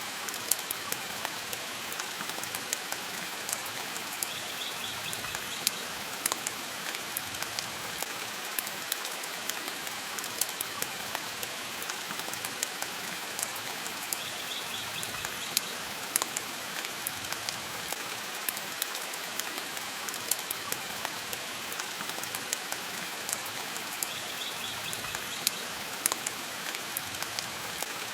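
Steady rain with frequent sharp pops and clicks from a crackling wood fire in a fireplace. A faint brief high twitter comes about every ten seconds.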